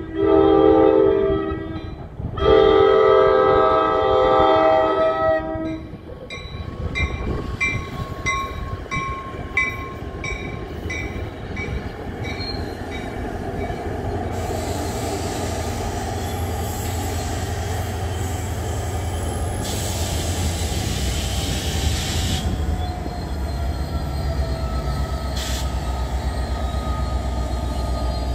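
NJ Transit commuter train horn sounding a long blast as a grade crossing nears, a short gap, then a second long blast. Next, a railroad crossing bell dings steadily at about two strikes a second. Then the train, a Comet V cab car leading and a PL42AC diesel locomotive trailing, rolls into the station and slows, with a steady rumble, a hiss and a falling squeal from the wheels.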